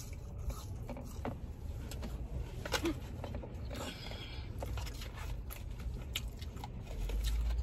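Soft chewing of a waffle fry with a few faint clicks, over a steady low rumble inside a car's cabin that swells near the end.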